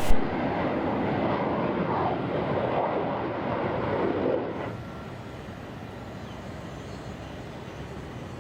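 Jet airliner on landing approach, its engines a steady rushing roar that drops abruptly to a quieter, steady rumble about four and a half seconds in.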